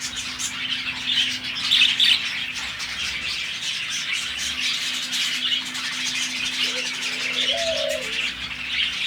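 Many budgerigars chattering and chirping at once in an aviary, a dense, continuous twitter, with a few lower calls near the end. A faint steady hum sits underneath.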